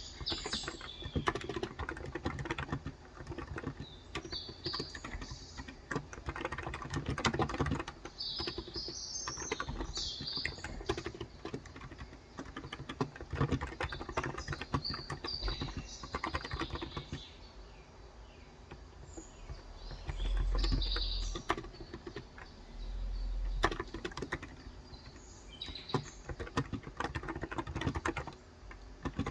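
Typing on a COX Endeavor electro-capacitive (Topre-style) keyboard with light 35 g switches: quick runs of soft key clacks with a few short pauses. Birds chirp now and then, and two short low rumbles come about two-thirds of the way through.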